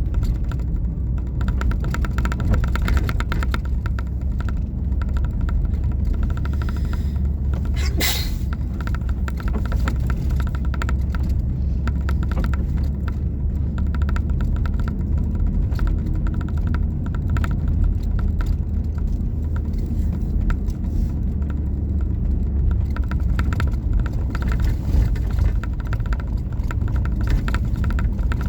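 Steady low rumble of a car driving, engine and road noise without change, with one brief sharp click about eight seconds in.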